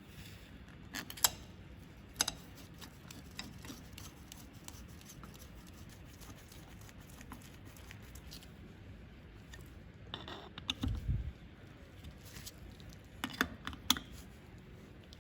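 Scattered light clicks and taps of small hard objects being handled, two sharper ticks in the first few seconds, a short low thump about eleven seconds in, and a quick run of clicks near the end.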